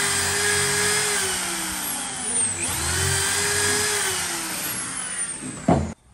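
Handheld power tool running at high speed with a whine. A little over two seconds in it slows and spins back up, then winds down and stops abruptly near the end.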